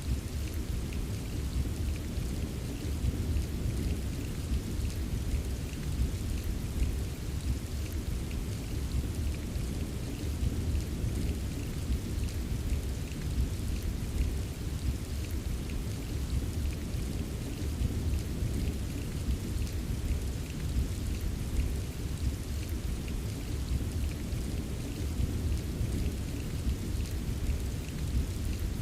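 Steady rain ambience: a constant deep rumble under a fine patter of drops, even throughout with no separate claps.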